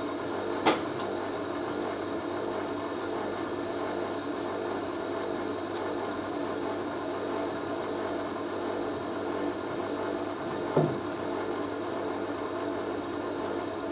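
Hoover washing machine's drain pump running with a steady hum, like a refrigerator compressor. Two brief clicks break it, about a second in and again near the end.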